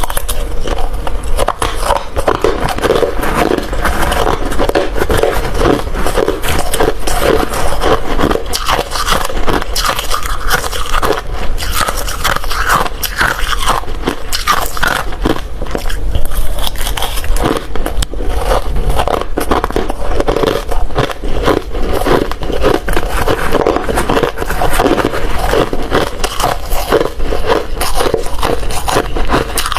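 Close-miked crunching of hard ice being bitten and chewed, a dense run of crackling, grinding crunches without pause.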